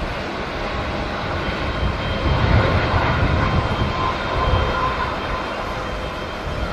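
Jet airliner's engines, a rumble with a faint whine that swells about two seconds in and eases after about five, mixed with wind buffeting the microphone.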